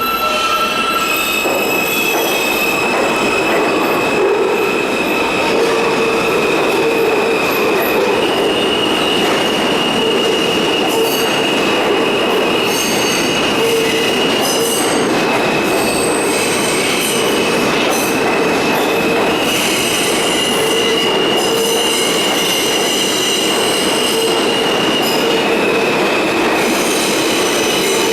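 R160 subway train running on the rails with its wheels squealing: a sustained high squeal that jumps between a few steady pitches, over continuous rolling noise.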